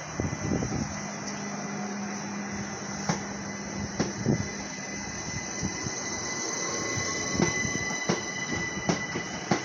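Southern Class 377 Electrostar electric multiple unit pulling out of the station. It makes a steady electrical hum and whine, with a tone that rises gently partway through as it gathers speed, and occasional knocks from wheels and couplings.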